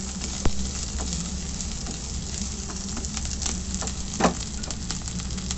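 Long-cut carrots sautéing in a little oil in a pan: a steady sizzle with small crackling pops, and a sharp knock about half a second in and another about four seconds in.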